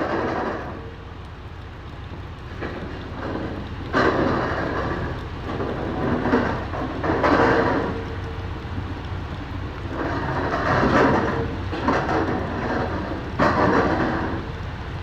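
Rain falling over a steady low rumble, with surges of noisy sound every second or two.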